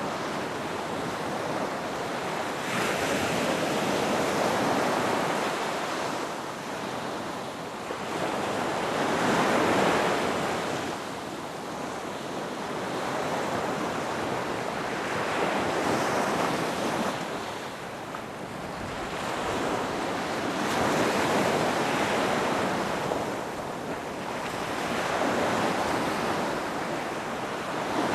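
Ocean waves breaking on a beach, each wave surging and washing back in a steady rhythm of roughly one swell every four to six seconds.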